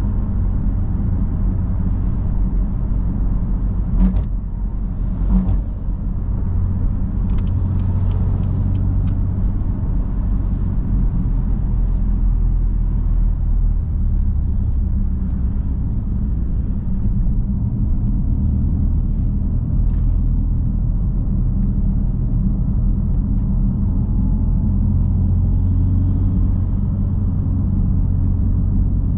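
BMW M3 F80's 3.0-litre twin-turbo inline-six engine running at a steady low drone while cruising in normal driving, with no hard acceleration. Two brief clicks are heard about four and five and a half seconds in.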